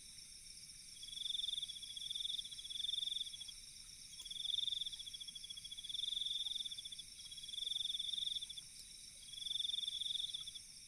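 Night-time chorus of trilling insects: a pulsed, high trill swells and fades in repeated bouts of a second or two, over a steady, shrill background chorus.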